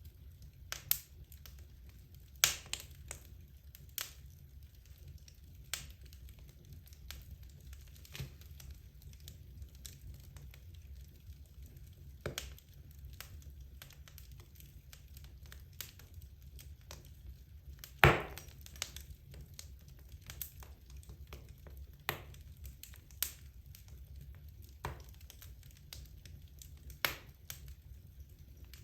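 Wood logs burning in a fireplace: irregular sharp crackles and pops, with one loudest pop about eighteen seconds in, over a low steady rumble.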